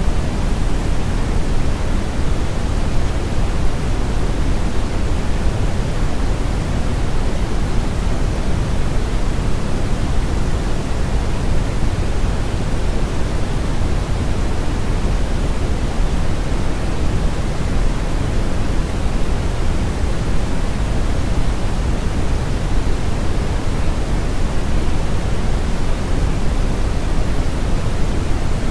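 Steady synthetic brown noise: a constant, even rushing hiss weighted heavily toward the low end. It does not change at all.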